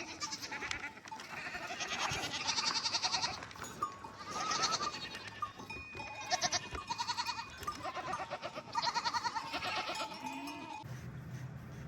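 Several goats bleating in overlapping, quavering calls of about a second each. The calls die away a second or so before the end, leaving a low steady hum.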